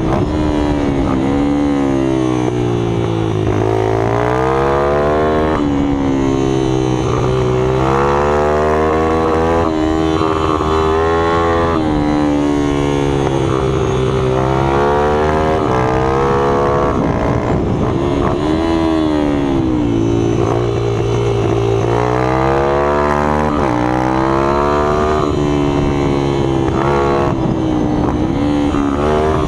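Minibike engines running hard, their pitch repeatedly falling and climbing again every few seconds as the throttle is chopped and reopened, with more than one engine heard at once.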